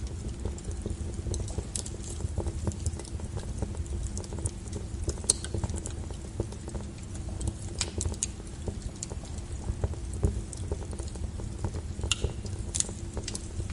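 Wood fire crackling: irregular sharp pops and snaps over a low, steady rumble of burning, with a few louder pops scattered through.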